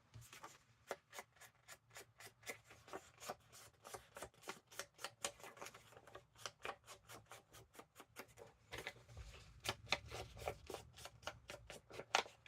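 An ink pad rubbed and dabbed along the edges of a paper-craft piece: a quick, uneven run of short scratchy strokes, several a second.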